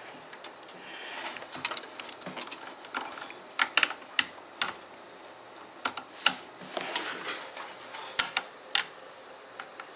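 Irregular sharp plastic clicks and rattles of a drive cable and its connector being handled and pushed onto a hard drive in a cramped PC case.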